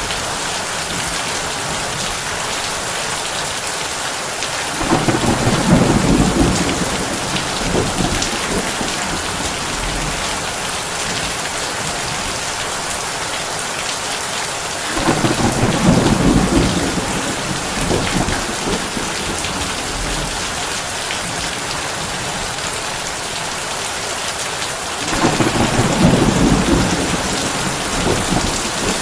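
Heavy rain drumming on a tin roof in a steady hiss, with three low rolls of thunder about ten seconds apart, each swelling for two or three seconds.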